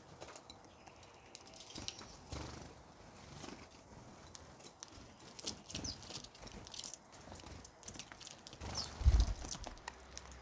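Birds feeding: short high chirps over many small clicks and taps, with a low thump about nine seconds in.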